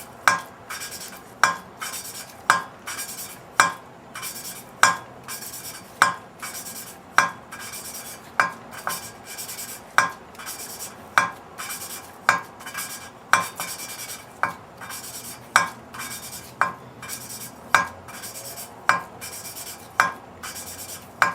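A Ford 302 V8's valve being hand-lapped into its seat with grinding compound: a gritty rasp as the lapping stick is worked back and forth, with a sharp metallic click about once a second.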